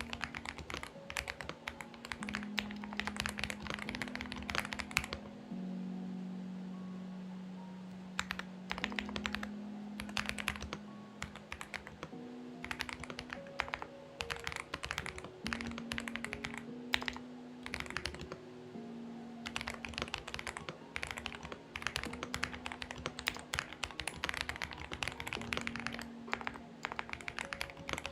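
Typing in quick runs of keystrokes on a Xinmeng X98 mechanical keyboard, with a pause of about three seconds some five seconds in, over soft background music of slow held notes.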